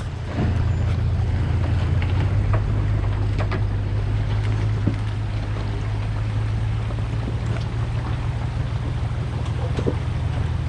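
Supercharged Toyota Tacoma engine running steadily under low-speed crawling load, picking up about half a second in, with scattered knocks and crunches from the truck working over the trail.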